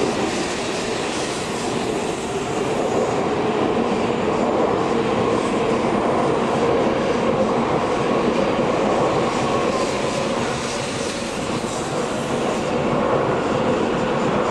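Shinkansen bullet train running past along the platform: a steady rushing rumble of the cars and wheels on the rails.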